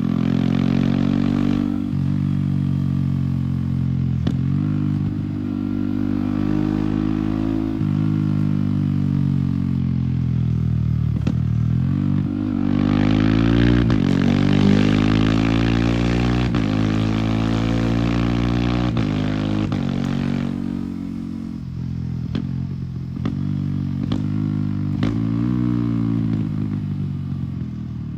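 Yamaha R15 single-cylinder engine through an MTG aftermarket exhaust, riding hard through the gears. The revs climb, then drop back sharply at each quickshifter upshift, again and again. A rushing noise sits over the engine through the middle stretch.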